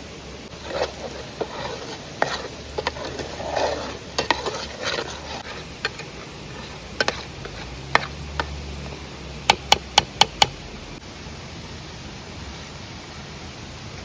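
A cooking utensil stirring and scraping in a pan over a wood fire. About ten seconds in, it taps the pan five times quickly and sharply. A steady hiss runs underneath.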